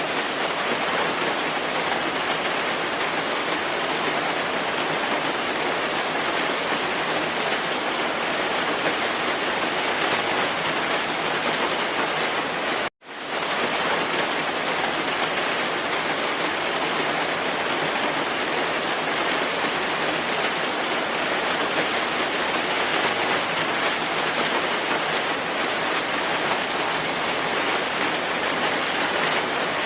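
Steady rainfall: an even hiss of falling rain with scattered small drop ticks. It cuts out to silence for a split second about thirteen seconds in, then returns at the same level.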